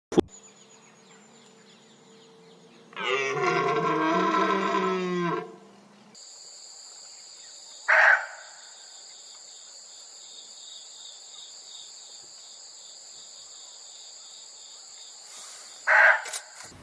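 Deer calling: one long, low, wavering bellow about three seconds in, then two short, sharp calls later on. A steady high insect drone, like crickets, runs beneath the later calls.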